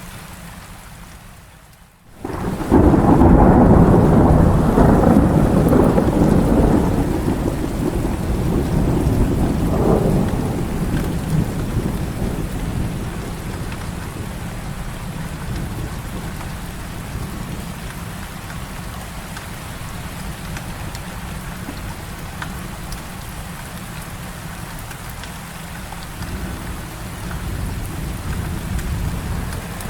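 Heavy rain with a long roll of thunder: the rumble breaks in suddenly about two seconds in, is loudest for the next few seconds, swells once more, then dies away into steady rain.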